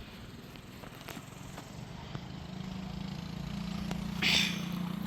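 Small mini bike engine running, its low hum growing steadily louder, with a brief loud hiss about four seconds in.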